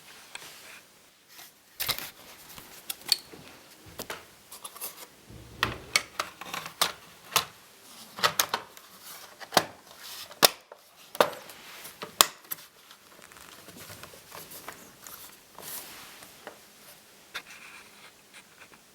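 Irregular sharp clicks, taps and scraping of hands working on a disassembled laptop's plastic and metal parts. They are busiest in the first two-thirds and thin out to softer rustling near the end.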